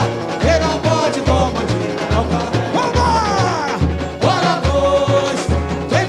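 Samba-school parade music: the bateria's surdo bass drums keep a steady beat about twice a second under the band, and a voice slides in pitch over it, falling in a long glide about three seconds in.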